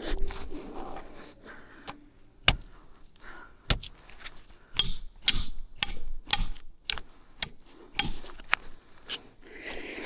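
Irregular sharp knocks and clicks, a few scattered at first, then coming several a second and louder from about five seconds in.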